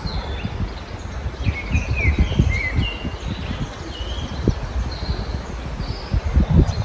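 Several small songbirds chirping and singing in short high notes, some sliding up or down in pitch, over a loud, irregular low rumble.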